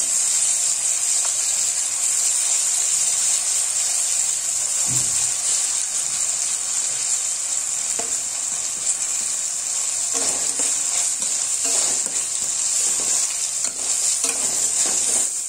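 Onions and ginger-garlic paste sizzling in hot oil in a stainless steel kadai, a steady hiss, stirred with a metal slotted spoon that scrapes the pan now and then. This is the tempering being fried until the raw paste cooks through.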